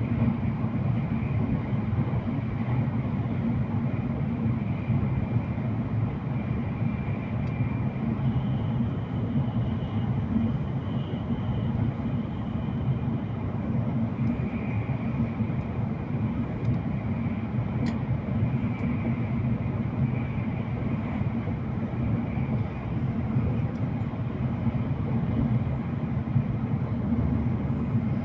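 Steady running noise of an E7/W7-series Hokuriku Shinkansen train at speed, heard from inside the car: a low, even rumble of wheels and air with a faint high tone that comes and goes.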